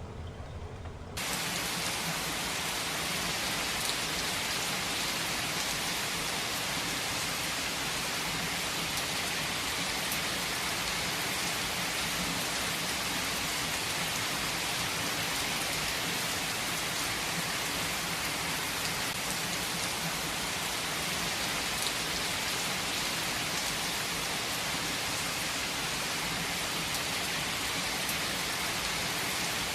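Heavy rain falling steadily in a dense, even hiss. It cuts in suddenly about a second in, replacing a quieter, lower sound with a faint hum.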